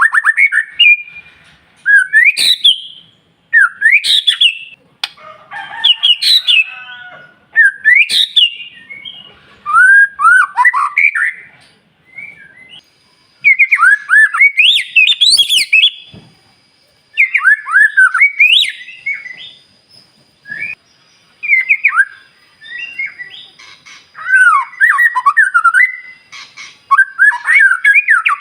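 White-rumped shama singing: loud phrases of quick, rising and falling whistled notes, broken by short pauses, with a few sharp clicks among them.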